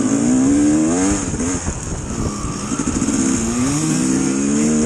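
Dirt bike engine revving under load, its pitch climbing in the first second, dropping back and climbing again near the end as the throttle opens and closes, over a steady hiss.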